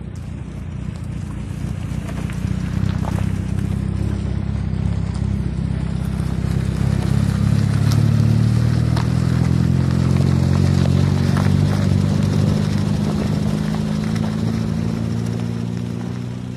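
Triumph Spitfire's 1500 four-cylinder engine on twin SU carburettors running under way on a gravel track, its note rising gradually and getting louder over the first few seconds. Gravel crackles and pings under the tyres.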